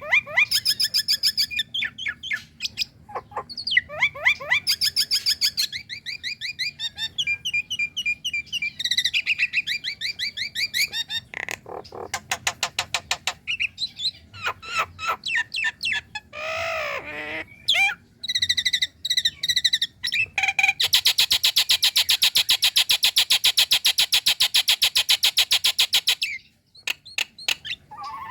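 Female Nias hill myna calling: a quick run of varied whistles and trills, then a long, fast rattling chatter about three-quarters of the way through.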